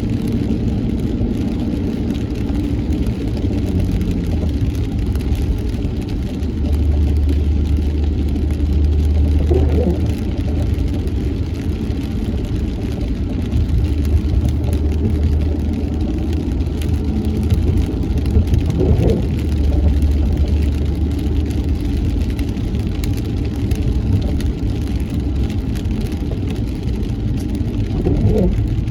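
Car cabin sound while driving in rain: a steady low engine and tyre rumble, with a brief sweeping sound recurring about every nine to ten seconds.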